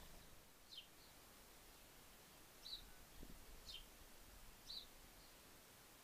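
Faint bird calls: a short, thin, falling note repeated about once a second, over a quiet garden background.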